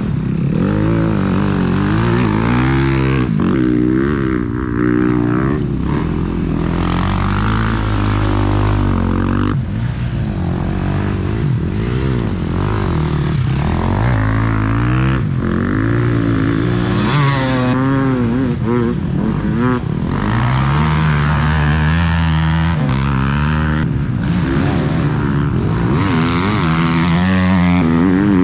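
Several motocross bikes running on the track at once, their engines revving up and dropping back over and over as they accelerate and shift, with the pitches overlapping.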